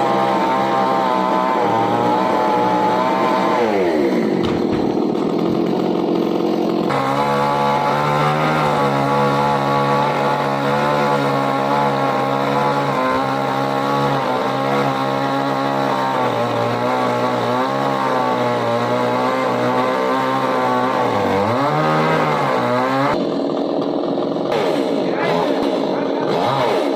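Stihl two-stroke chainsaw running at high revs, its pitch sagging and recovering a few times.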